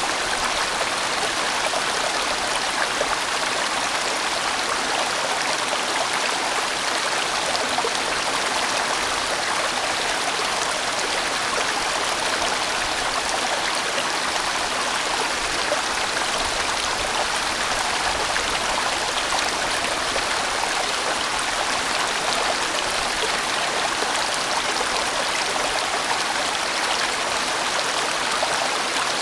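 Large mountain stream flowing steadily over rocks, a constant rushing of water without breaks.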